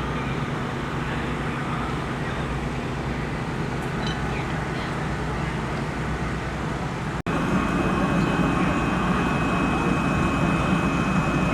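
410 sprint car V8 engines running steadily, with no clear revving. About seven seconds in, an abrupt cut leads to a louder stretch of the same engine sound.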